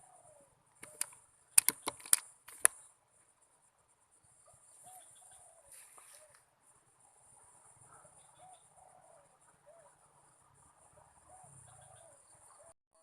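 A quick run of about five sharp clicks between one and three seconds in. After it come soft, repeated short bird call notes over a steady high insect drone.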